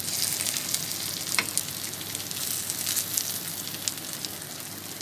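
Pieces of steamed egg sizzling and crackling in hot oil in a frying pan, shallow-frying on low-medium heat until they brown, with a spatula moving the pieces and a small sharp click about a second and a half in.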